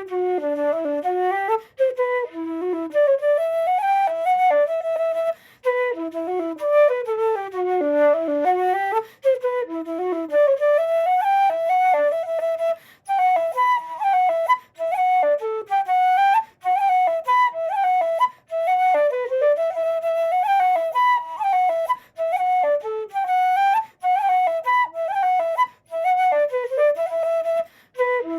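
Solo cocus-wood Irish wooden flute by Patrick Olwell playing a slide, a lively dance tune in fast ornamented phrases broken by quick breaths.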